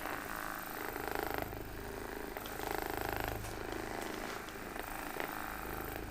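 Electric massager running against the muscles of the lower back, a steady low pulsing buzz.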